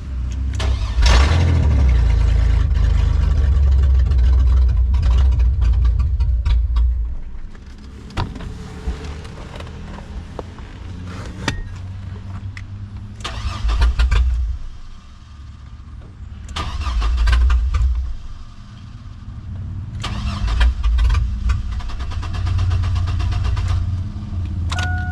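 2001 Oldsmobile Bravada's 4.3L V6, run dry of oil and coolant with its exhaust off, being cranked to restart after stalling. It fires and runs loudly in several bursts of a few seconds each, dying back between them without staying running.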